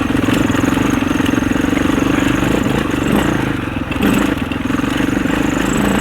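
Husaberg 650 single-cylinder four-stroke enduro engine running under throttle while riding a trail. The revs ease off about three seconds in, then pick up again a second later.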